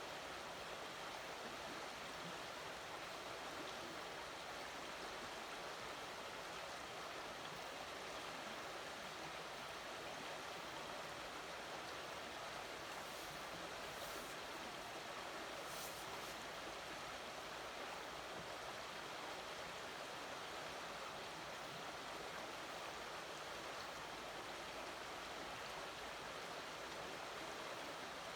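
Swollen, fast-flowing river rushing steadily, running very high after heavy hurricane rain.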